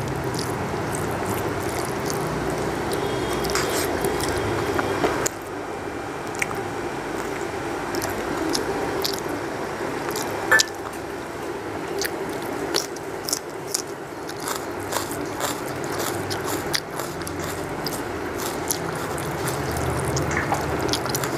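Close-miked eating by hand: chewing and mouth sounds, with many small scattered clicks and squishes as rice and chicken curry are mixed and eaten with the fingers, over a steady low hum.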